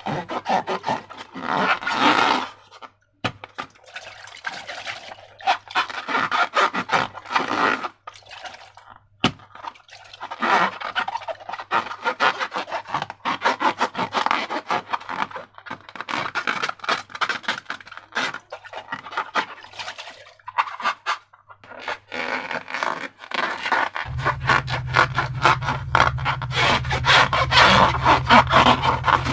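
Slime being worked by hand: sticky crackling, clicking and scraping in bursts with short pauses between. A low steady hum joins near the end.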